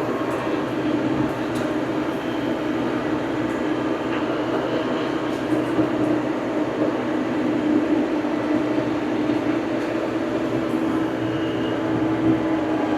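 Farm tractor engine running steadily, a constant drone with a strong steady hum.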